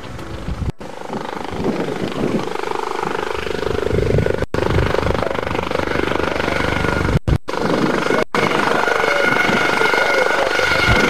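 Aerospatiale AS365N1 Dauphin helicopter running, with a steady high whine that comes in more strongly about eight seconds in. The old recording drops out completely for an instant about five times.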